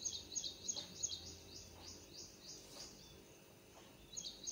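A small bird chirping over and over in the background, short high notes about three a second. It stops about three seconds in and starts again near the end.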